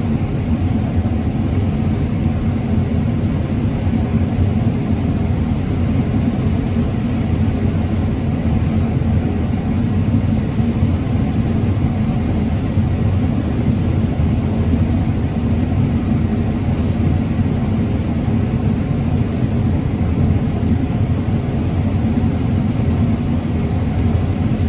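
Combine harvester running steadily while cutting corn: a continuous low drone of engine and machinery.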